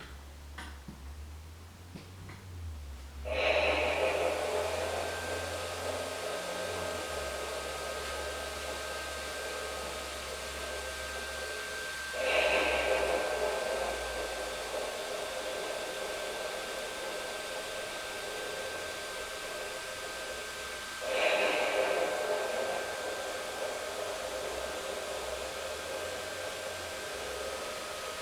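Electric blower fan of a Halloween inflatable switching on about three seconds in and then running with a steady rush and a faint whine. A louder swelling sound recurs about every nine seconds over it.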